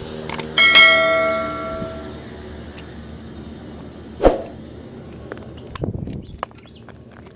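A single bell struck once, ringing out with a bright metallic tone that fades over about a second and a half. About four seconds in comes one sharp knock.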